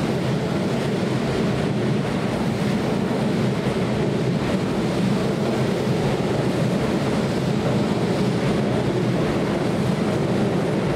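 Keihan electric train running along the track at the platform, with a steady, loud rumble of wheels on rail.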